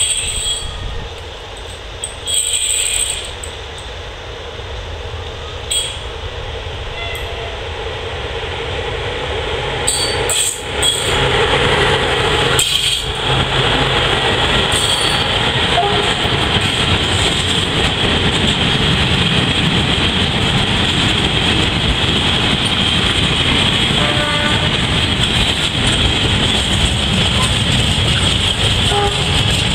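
Freight train with a locomotive and flat wagons approaching and then passing close by. Its noise grows over the first ten seconds, then the wagons' wheels rumble steadily and loudly on the rails to the end.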